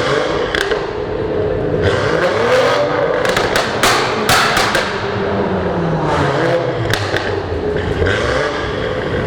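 Car engines revving up and dropping back several times, with a cluster of sharp cracks near the middle.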